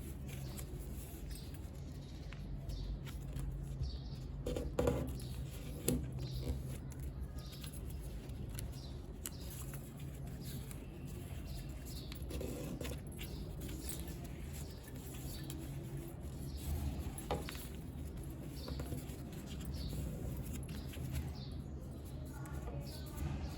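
Sheet of paper being handled, folded and creased by hand: soft rustling with occasional crisp creasing clicks, over a steady low hum.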